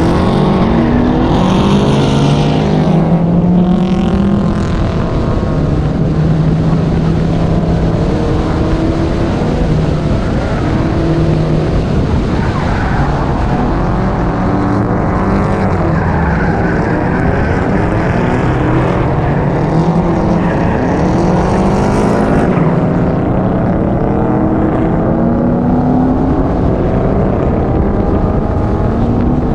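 Several drift cars' engines revving hard on track, their pitch rising and falling in arches as the cars go past, with one after another throughout.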